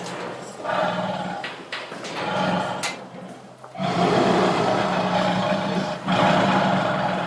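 Tiger roaring and growling in several bouts with short pauses between them, the longest bout starting about four seconds in.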